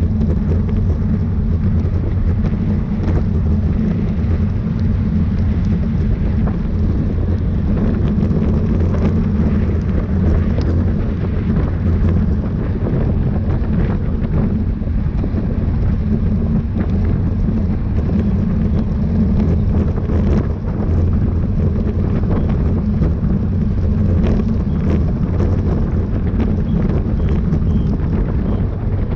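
Steady wind rumble on the microphone of a camera riding along in a bicycle race at speed.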